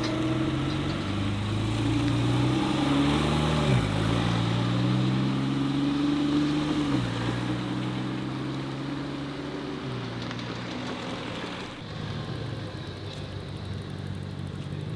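Modified car engine running at low revs as a car pulls away slowly. The engine note holds, then dips sharply twice, about four and seven seconds in, and settles lower for the last few seconds.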